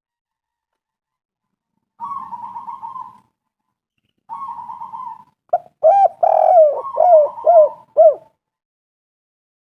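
Spotted dove calling: after about two seconds of silence come two softer rolling trills, then a louder run of quick, arched coos that stops about a second and a half before the end.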